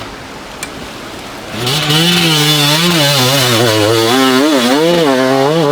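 Dirt bike engine that starts revving loudly about a second and a half in, its pitch rising and falling again and again as the throttle is worked.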